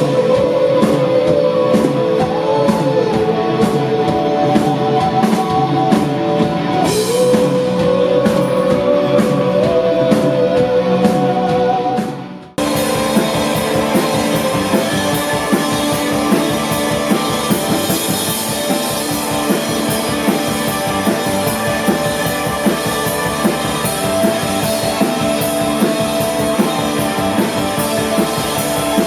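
Live rock band playing with drum kit and electric guitars, a held melodic lead line sliding between notes over the beat. About twelve seconds in the sound dips and cuts abruptly to a different passage of band music.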